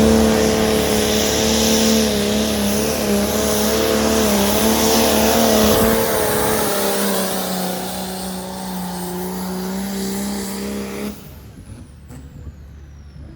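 Diesel pickup truck engine at full throttle under load on a pulling track, holding a steady high pitch that sags a little about halfway through. It cuts off near the end, leaving a quieter whine that falls in pitch.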